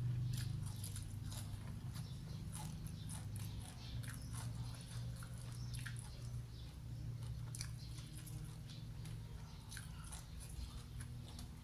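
A person biting and chewing crunchy batter-fried food close to the microphone, with many short, scattered crisp crunches over a steady low hum.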